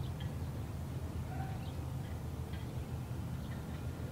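Birds chirping faintly, short high calls every second or so, over a steady low rumble.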